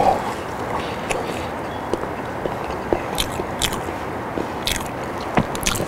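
Close-up chewing and biting of a soft boiled potato: scattered wet mouth clicks and smacks over a steady hiss, picked up on a lapel mic.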